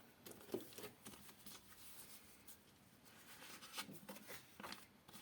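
Faint handling noises of a cardboard box and its packaging being opened: a few soft clicks and short rustles, with quiet room tone between them.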